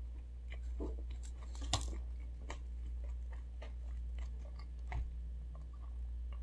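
Close-up chewing of a bite of pizza: irregular wet mouth clicks and small crunches of crust, with a steady low hum underneath.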